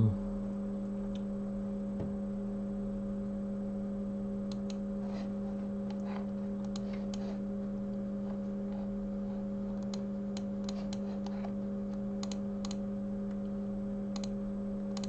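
Steady electrical hum from bench equipment, with faint light clicks of small tools working on a phone circuit board scattered through the middle.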